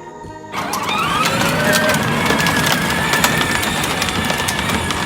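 A toy Jeep's electric motor starting up about half a second in with a rising whine that then holds steady, along with rattling and clicking as it runs.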